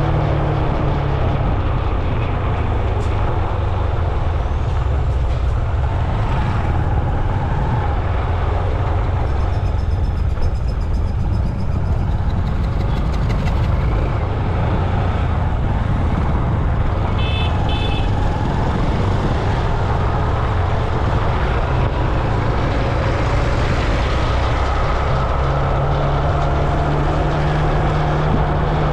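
Road traffic noise heard from a moving rider: a loud, steady rumble of passing vehicles, with two short horn beeps about seventeen seconds in.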